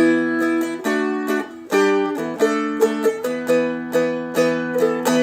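Seagull Merlin M4, a small four-string strummed instrument, capoed at the first fret and strummed with a pick through a run of quick chords that change every half second or so, the last chord left ringing.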